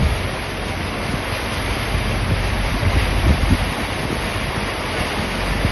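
Wind buffeting the microphone in irregular low gusts over a steady rushing noise, typical of filming outdoors in a rainstorm.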